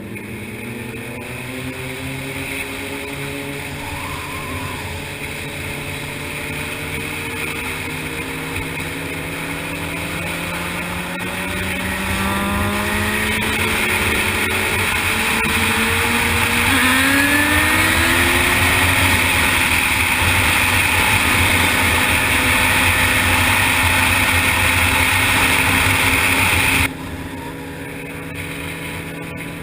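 Honda CBR600RR sportbike's inline-four running at road speed, its pitch climbing several times as it accelerates up through the gears. Heavy wind rush on the microphone grows louder from about halfway through and cuts off suddenly near the end.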